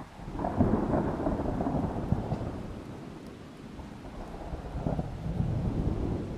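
Rolling thunder: a rumble that starts suddenly, swells and fades, then swells again about five seconds in.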